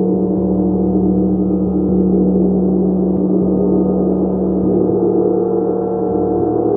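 Large gong played continuously with soft, repeated mallet strokes, building a loud, sustained shimmering drone of many overlapping steady tones with no silence between strokes.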